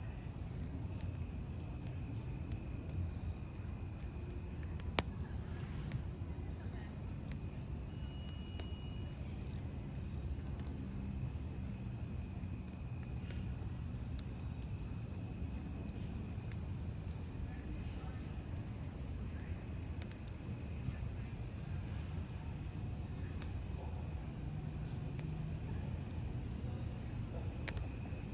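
Crickets trilling steadily over a crackling wood campfire, with a few sharp pops from the burning logs.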